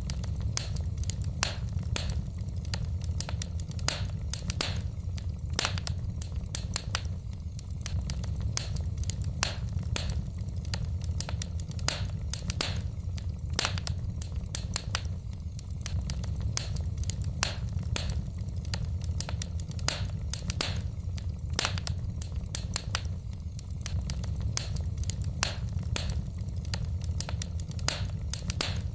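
Wood fire in a fireplace crackling: many sharp, irregular pops and snaps of burning logs over a steady low rumble of the flames.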